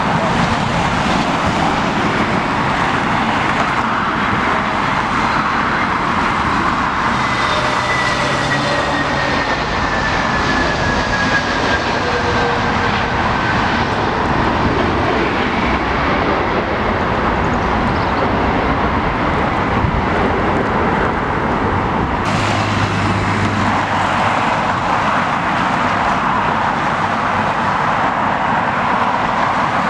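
Jet airliner on landing approach, its engines giving a steady rush with a thin whine that slowly falls in pitch as it goes by. Wind rumble on the microphone runs underneath.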